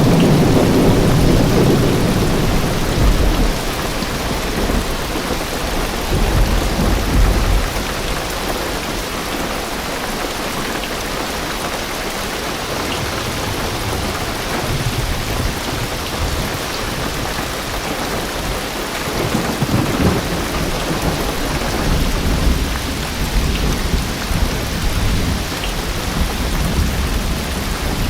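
Heavy rain drumming steadily on a car roof, heard from inside the car, with low rolls of thunder: loudest at the start, again about six seconds in, and rumbling on from about twenty seconds in.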